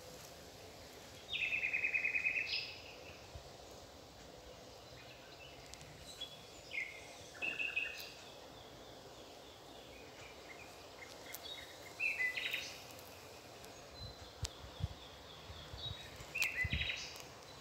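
A songbird singing a short, fast trilled phrase every few seconds, the louder phrases ending in a higher note, over steady outdoor background noise.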